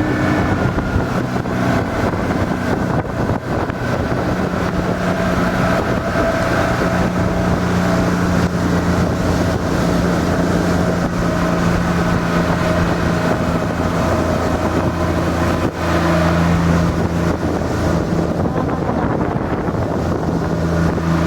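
Honda BF50 four-stroke outboard motor running steadily under way, with wind noise on the microphone. There is a brief dip in level about three-quarters of the way through.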